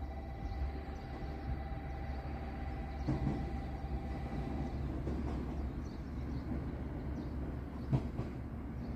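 Electric train running in toward the station platform, with a steady low rumble on the rails. A steady whine stops a little before halfway, there is a thump about three seconds in, and a sharp knock comes near the end.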